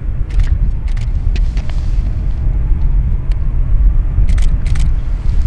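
Loud, unsteady low rumble of wind buffeting the microphone, with a few short clicks, several of them close together near the end.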